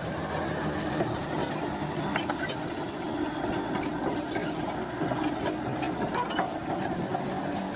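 Heavy diesel earthmoving machine running steadily, with scattered short metallic clicks and knocks over the engine sound.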